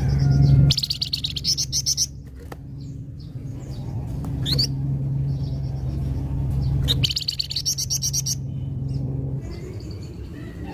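A flamboyan songbird singing in full voice. It gives two loud, rapid chattering trills, about a second in and again about seven seconds in, with a rising whistled note and softer chirps between them, over a steady low hum.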